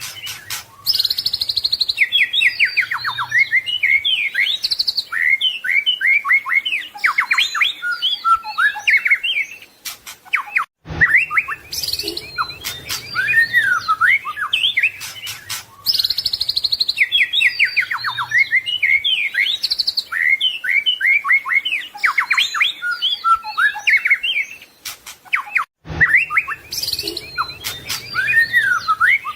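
White-rumped shama (murai batu) singing a fast, varied song of whistles, trills and chattering notes, with brief breaks where the same passage starts over.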